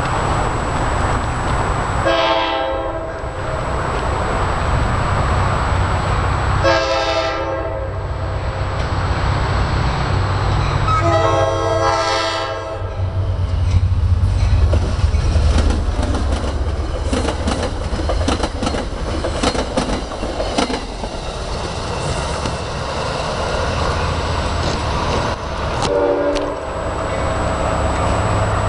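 NJ Transit F40PH-2CAT diesel locomotive sounding its horn for a grade crossing: two long blasts and then a longer one. It then runs through the crossing with a steady engine rumble and rapid clattering of wheels over the rail joints. A short horn blast comes again near the end.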